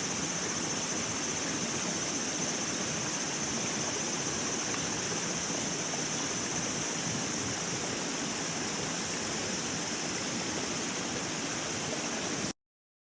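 Steady rushing noise, like running water, with an even high-pitched hiss over it; it cuts off suddenly near the end.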